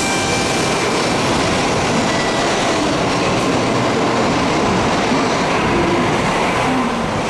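Tokaido Shinkansen train running past a platform, a loud, steady rushing noise.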